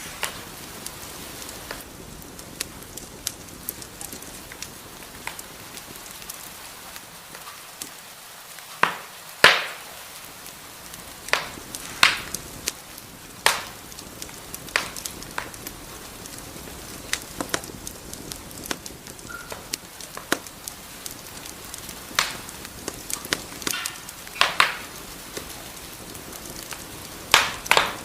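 Wood fire crackling in a fireplace: a steady soft hiss with irregular sharp pops and snaps, a handful of them much louder than the rest.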